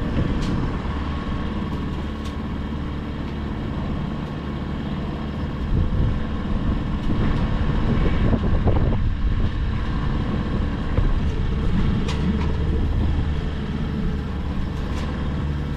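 Small boat's outboard motor idling steadily in neutral, a low even hum.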